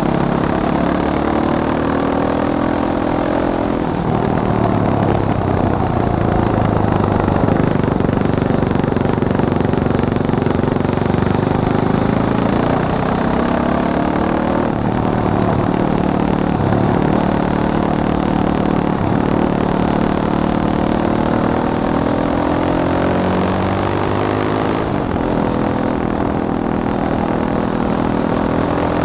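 Fantic Caballero 500 Flat Track's single-cylinder four-stroke engine running under load, its pitch climbing steadily and then dropping back sharply about three times, as through gear changes.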